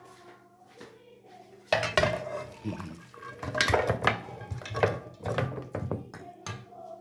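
Dishes and cutlery clattering: a run of knocks and scrapes of plates and utensils that starts a little under two seconds in and goes on for about four seconds, ending with a single knock.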